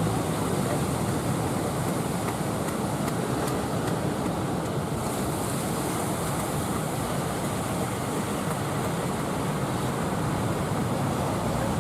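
Big sea waves surging and breaking: a steady rushing surf noise, with wind on the microphone.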